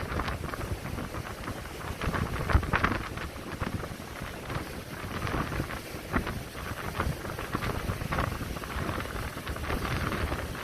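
Strong wind buffeting the microphone with a low rumble, over the rushing wash of waves breaking on the shore, swelling and fading every few seconds.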